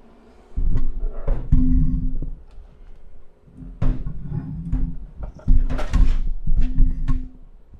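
Handling noise from the camera being picked up and moved around: rubbing and rumbling on the microphone in several spells, with scattered knocks and clicks.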